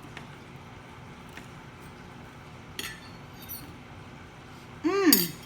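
Knife and fork clinking against the plate while cutting into a fried lobster tail, with two light clicks, then a short, loud pitched sound near the end that rises and falls in pitch.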